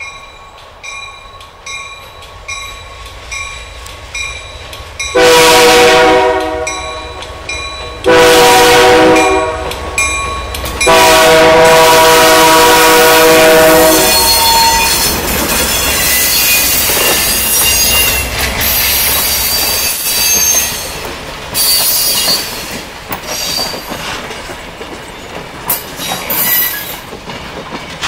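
Grade-crossing warning bells ring steadily at about two strokes a second. Then a diesel locomotive's horn sounds three loud, long blasts as it approaches the crossing. The locomotive and its passenger coaches then roll past with a low engine rumble, wheels clacking over the rail joints and brief high wheel squeals.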